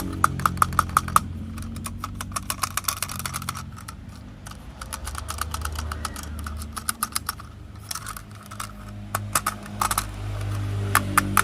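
Plastic toy train set clicking and clattering: quick runs of light, sharp clicks in bursts over a low steady hum.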